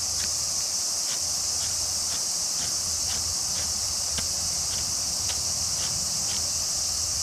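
Steady high-pitched chorus of summer insects, with light clicks about twice a second underneath.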